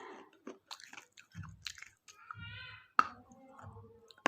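Close-miked chewing of a chocolate-coated KitKat wafer, with wet mouth clicks and a sharp crack about three seconds in.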